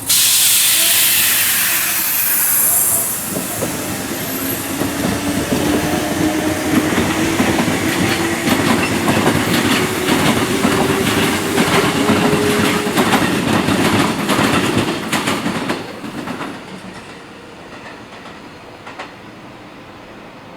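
Sanyo 5000 series electric train running past close by. Its motor whine climbs steadily in pitch as it gathers speed, and its wheels clack over the rail joints. The sound falls away suddenly about sixteen seconds in.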